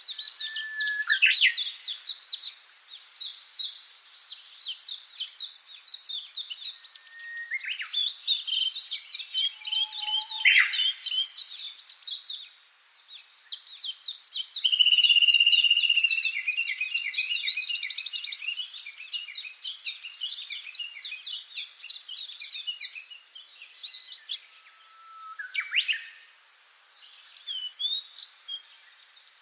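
Small songbirds singing: fast trills of short, high chirps in overlapping phrases, with two brief lulls.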